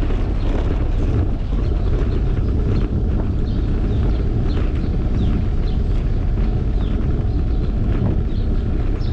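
Wind buffeting a GoPro's microphone on a moving bicycle: a steady low rumble, with faint short high chirps scattered through it.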